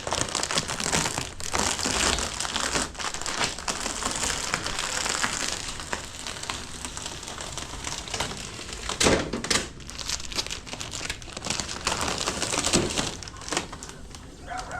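Plastic wrapping being crumpled, crinkled and pulled off, a continuous crackle with sharper rustles now and then.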